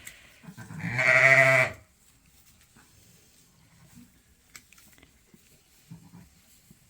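A sheep bleats once, loud and about a second long, about a second in. Faint scattered clicks and rustles of straw and movement follow.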